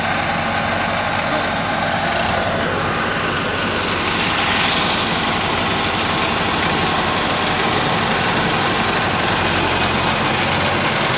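Tractor engine running steadily under load while pulling a fully loaded trolley out along a rough track.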